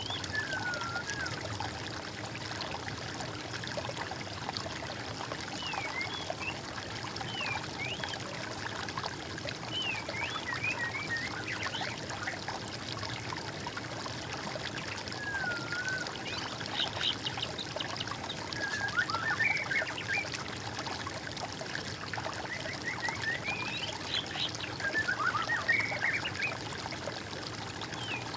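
Small stream or brook trickling and running steadily, with songbirds calling and singing over it in short whistled phrases and chirps, most busily in two stretches in the second half.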